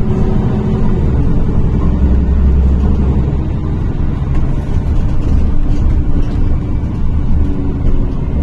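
Inside a NefAZ-5299 city bus on the move: a steady low drone from its engine and drivetrain, with the pitch drifting slightly, over road noise.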